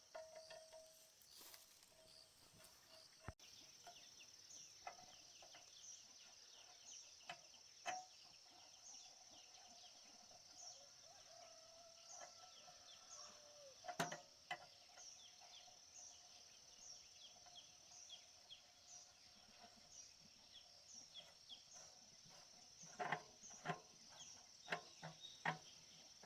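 Faint outdoor background of a steady high insect drone with a short chirp repeating a bit more than once a second, and scattered light clicks and taps, a cluster of them near the end.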